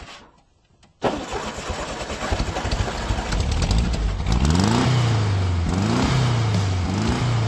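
Car engine starting, then revving, its pitch climbing and falling back three times near the end.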